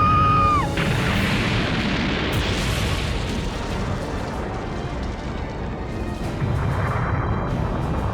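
Dramatic orchestral score under a cartoon battle soundscape of booming explosions and rumbling. In the first second a high tone rises and holds, then cuts off.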